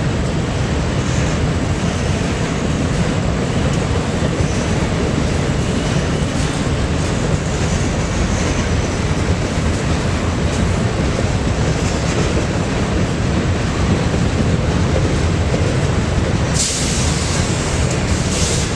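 Freight train rolling past, a steady low rumble and rattle of the cars on the rails, with a brief high hiss near the end.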